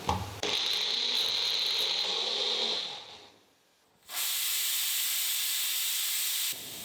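Electric mixer grinder running steadily as it grinds a paste of onion, cashews, almonds and milk, winding down about three seconds in. After a short gap a steady hiss starts and cuts off abruptly near the end.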